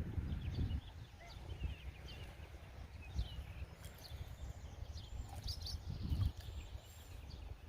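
Small birds chirping in short, scattered calls over a low rumble of wind or handling noise.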